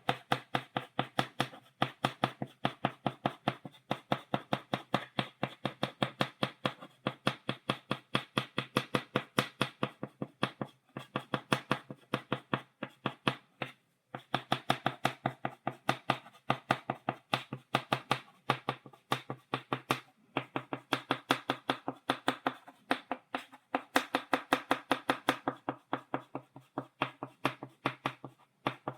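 Chalk tapping against a blackboard in quick, even strokes, stippling dots, about four taps a second, in runs broken by a few short pauses.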